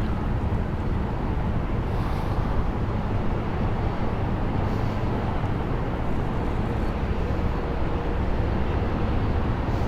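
Steady low outdoor rumble with no distinct events, the kind made by wind on the microphone and far-off traffic.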